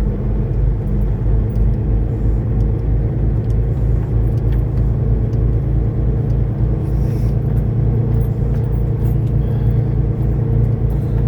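Semi truck's diesel engine running steadily, a low throb with a regular pulse that doesn't change.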